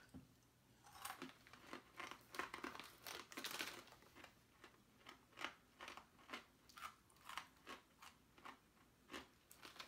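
Faint chewing of crunchy Bissli falafel-flavour wheat snacks: a steady run of crisp crunches about two a second, with a short rustle of the snack bag as a hand goes in midway.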